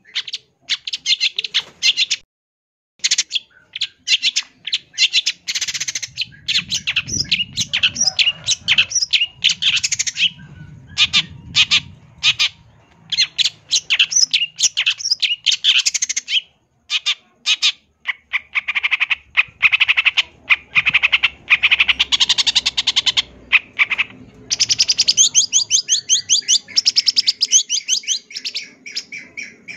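Long-tailed shrike (cendet) singing a fast, harsh song of rapidly repeated notes packed with mimicked calls, broken by a few short pauses. Near the end it runs into a long, very rapid trill.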